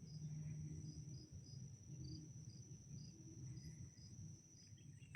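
Faint insects singing, likely crickets: a continuous high trill with a second regular chirp about twice a second, over a low background rumble.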